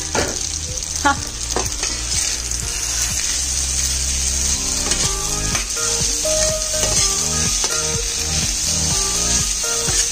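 Spaghetti and shredded vegetables sizzling steadily in a hot pan as they are stirred and tossed, with two knocks in the first second or so.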